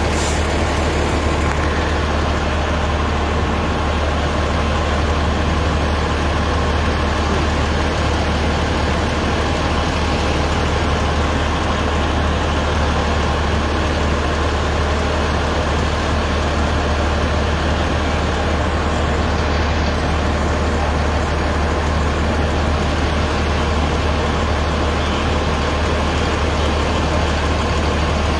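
Large diesel engine idling steadily, a low, even drone with no changes in pitch or level.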